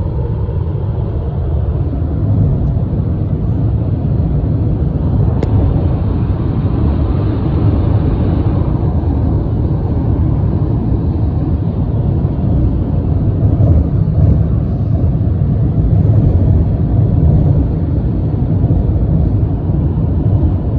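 Freight train rolling past close by: a steady, loud rumble of wheels on rail that holds without a break.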